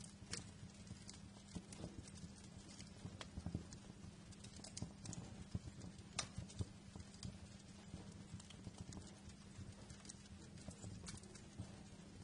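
Wood fire crackling in a fireplace: irregular sharp pops and snaps, several a second and uneven in loudness, over a low steady rumble.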